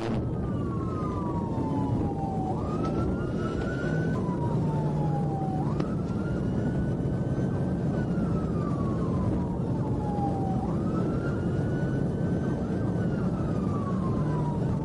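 Police car siren sounding a slow wail, its pitch rising quickly then falling slowly, about every three seconds, over a steady low rumble.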